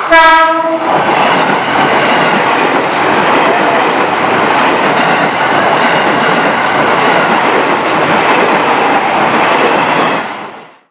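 KRL electric commuter train gives one short horn blast, then passes with steady wheel-on-rail running noise mixed with heavy rain. The sound fades out just before the end.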